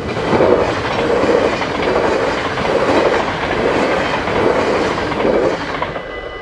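A train passing over the level crossing, its wheels clattering over the rail joints in a regular clickety-clack about every three-quarters of a second, fading away near the end.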